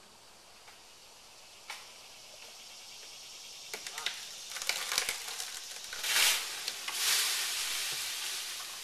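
Leafy branches of a cut limb crackling and snapping in irregular bursts, loudest a little past halfway, as the limb is let down on a rope.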